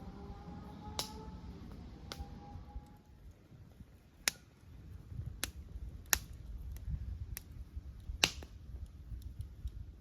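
Campfire dying down in a fire pit, crackling with sharp pops about once a second over a low rumble.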